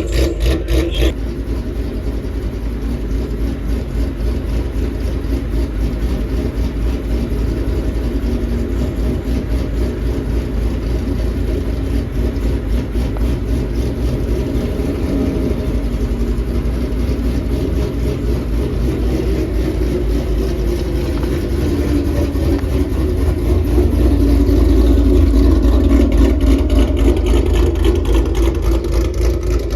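Car engine running steadily with a deep, even pulse, growing louder about three-quarters of the way through. A brighter rush in the first second cuts off abruptly.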